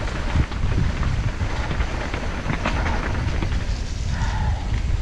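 Wind buffeting the microphone of a mountain bike rider's camera during a downhill run, with scattered clicks and rattles from the tyres and bike on a slippery trail.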